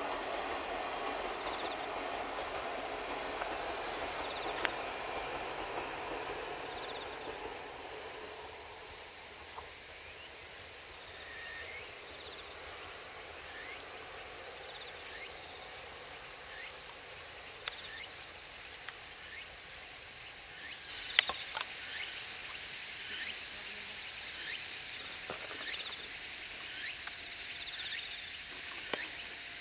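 Kominato Railway diesel railcar running away into the distance, its sound fading out over the first several seconds. Under it runs a steady high-pitched insect drone with scattered faint chirps, and a few sharp clicks come about two-thirds of the way in.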